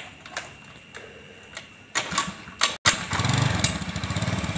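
Scattered clicks and knocks, then a small engine catches about three seconds in and runs with an even, pulsing idle.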